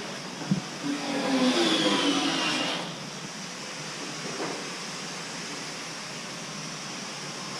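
Mini excavator engine running steadily, with guitar music heard over it for the first three seconds or so.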